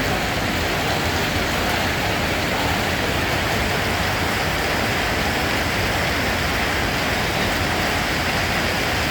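Steady heavy rain falling, a continuous even hiss with no separate drops or thunder standing out.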